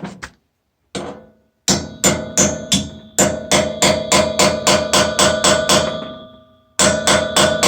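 Hammer tapping a straight-shank easy-out screw extractor into the broken-off steel pipe remnant in a boiler fitting: a quick run of metal-on-metal strikes, about three a second, each ringing on briefly. The strikes stop for about a second near the end, then a few more follow.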